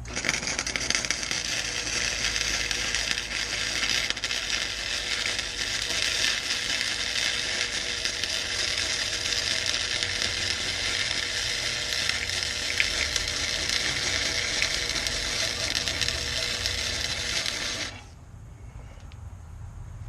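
Flux-core wire-feed welder arc crackling steadily as a weld bead is laid, running for about eighteen seconds and then cutting off.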